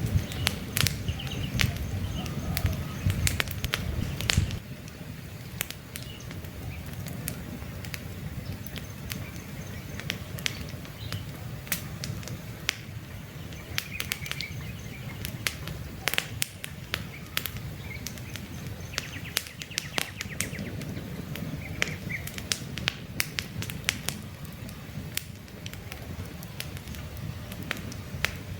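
Wood campfire crackling, with frequent sharp pops over a low rumble of the flames that falls away about four and a half seconds in. Birds chirp faintly now and then.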